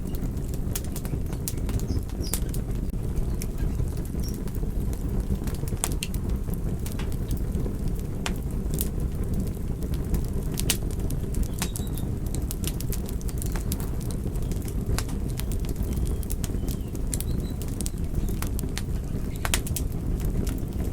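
Wood fire burning: a steady low rumble of flames with frequent sharp crackles and pops.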